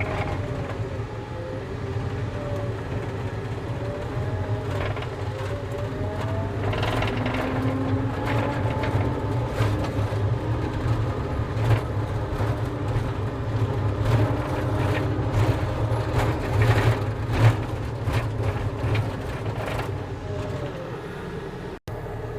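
Volvo skid steer engine running under way, a steady drone with a higher whine that wanders up and down in pitch. Scattered clanks and rattles come through, and the sound breaks off abruptly near the end.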